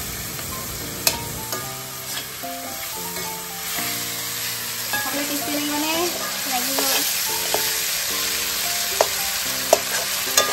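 Chicken pieces, tomatoes and onions sizzling in hot oil in a steel wok while a slotted metal spatula stirs and scrapes them, with sharp clinks of the spatula against the pan several times, most clearly near the end.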